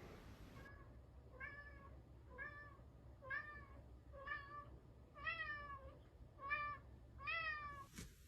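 Cat meowing repeatedly: a quick series of about a dozen short, high-pitched meows, some falling in pitch at the end, roughly one every half second to second.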